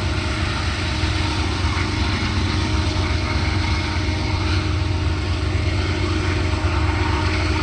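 Diesel locomotive on a freight train running: a steady, deep engine drone with a few constant tones riding over it and no break or change.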